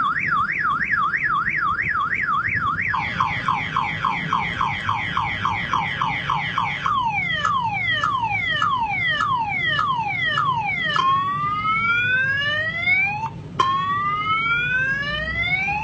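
Electronic ambulance siren cycling through its tones like a multi-tone car alarm: a fast up-and-down warble, then about three quick falling sweeps a second, then slower falling chirps, then long rising whoops for the last few seconds.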